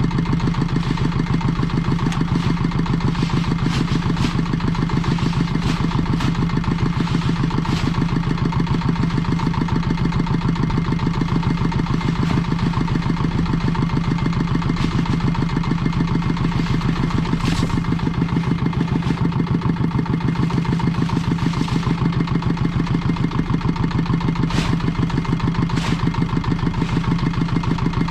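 A small engine running steadily at a constant speed, with a few faint clicks over it.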